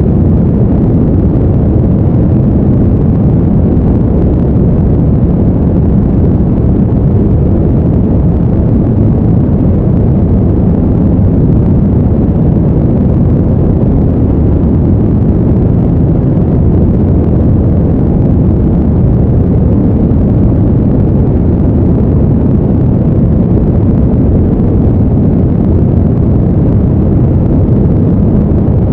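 Steady, deep rushing noise, strongest in the bass and fading away toward the treble, with no rhythm or events: brown noise played as a sleep background.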